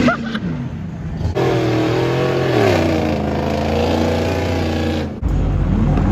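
Pickup truck engines revving and running on a mud track. The pitch eases down about midway, and the sound switches abruptly to a different engine note about a second in and again near the end.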